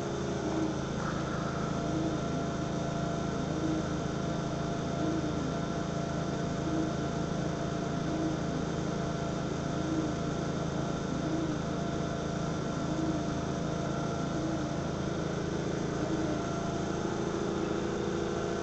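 Vytek FX2 laser cutter running: a steady mechanical hum and whir, with a faint swell recurring about every second and a half.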